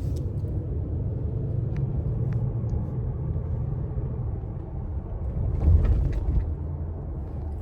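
Steady low road rumble from inside a moving vehicle, with a few faint ticks over it.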